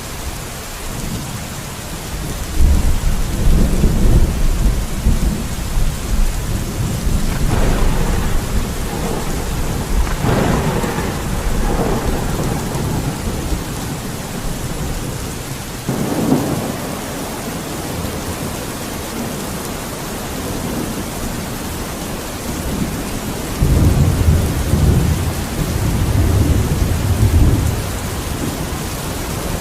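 Steady heavy rain with thunder: two long low rumbles, one a few seconds in and another near the end, and sharper claps in between.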